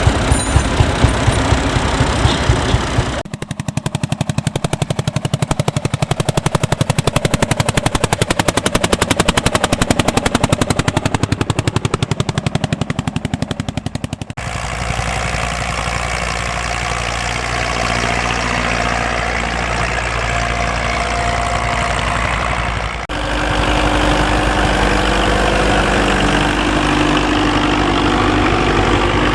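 Vintage tractor engines working, in several cut-together clips. From about three seconds in until about fourteen seconds, one engine beats out a rapid, very even pulse, the sound of a slow-running single-cylinder such as a Landini Testacalda hot-bulb engine. The other clips carry the steadier, smoother run of multi-cylinder tractor engines.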